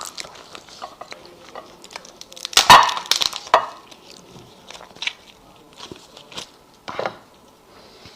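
Close-up eating sounds of seafood and meat: scattered small clicks and crunches, with a loud crunching bite about two and a half seconds in and another shorter one about seven seconds in.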